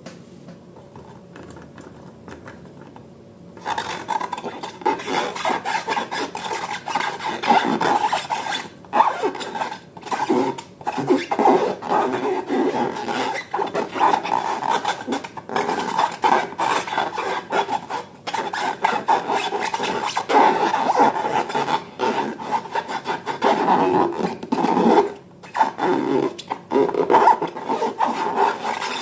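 Rubber balloons being rubbed and squeezed by hand: a dense rubbing rasp that starts a few seconds in and carries on with brief gaps.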